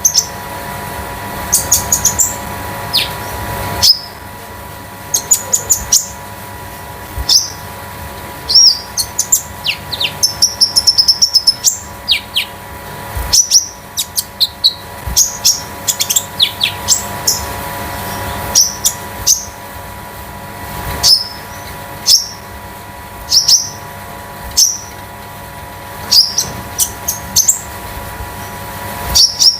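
Konin songbird calling: short, sharp high chirps repeated every second or so, with a fast run of trilling notes about ten seconds in. A faint steady hum runs underneath.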